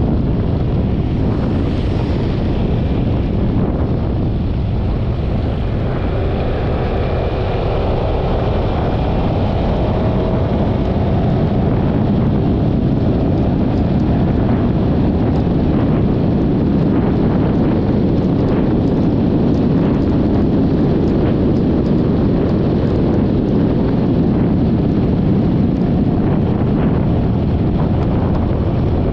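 Wind rushing over the microphone of a Yamaha XMAX 300 scooter under way, with the scooter's drive noise beneath it and a faint pitch that slowly rises and falls. Scattered small ticks run through it.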